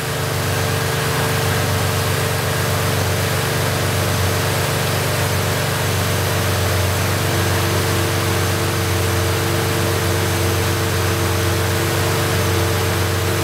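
Chevrolet Malibu engine idling steadily with its electric radiator cooling fans running: a constant rush of air over a low engine hum. The fans are on because the coolant is up to operating temperature.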